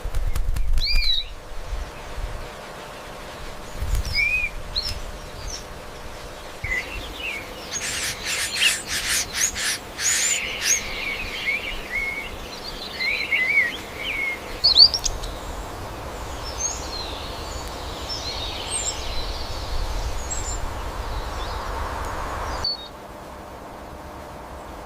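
Wild birds chirping and calling in short, scattered phrases over a steady forest background, with a quick run of about eight sharp taps about a third of the way in. The background noise drops off suddenly near the end.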